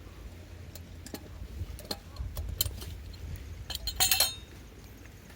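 A series of sharp clicks and clinks of hard objects, scattered at first, then a quick loud cluster about four seconds in, over a steady low rumble of wind.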